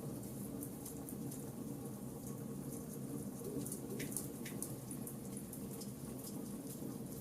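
Charcoal fire crackling: frequent small irregular pops and ticks, with two slightly stronger snaps about four seconds in, over a steady low rumble.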